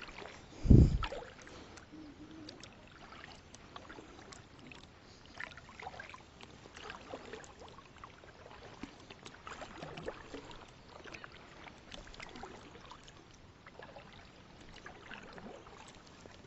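Faint water lapping and trickling around a kayak, with small scattered knocks. A single dull, low thump about a second in is the loudest sound.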